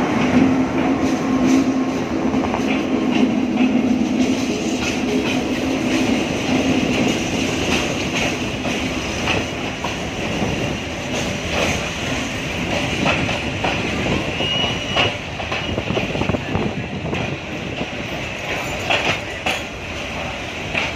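Passenger train hauled by a German-built locomotive pulling into a station. The engine hums low and steady over the first several seconds, and the wheels click over the rail joints throughout. There is a brief high squeal about fourteen seconds in.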